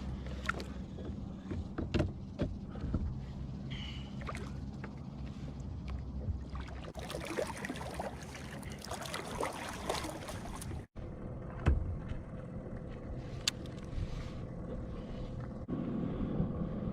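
Sounds aboard a fishing kayak on the water: scattered knocks and clicks of gear against the hull over a low steady background. Around the middle there is a hissing, splashy stretch that cuts off abruptly, and a faint steady hum follows in the last few seconds.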